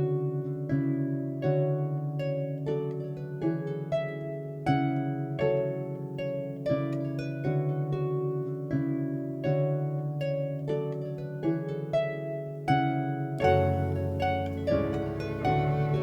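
Irish harp playing an instrumental tune in a run of plucked, ringing notes. About thirteen seconds in, more instruments join with a low bass note and a hiss of cymbals.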